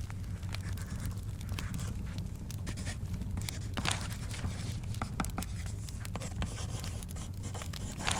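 Wood fire crackling with scattered sharp pops over a low steady rumble, with the papery swish of book pages turning about halfway through and again at the end.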